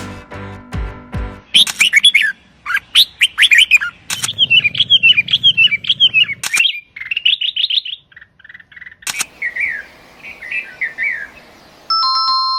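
Music ends about one and a half seconds in, and a songbird takes over with loud, rapid chirping phrases in several pieces, broken by a few sharp clicks. A short steady electronic tone sounds near the end.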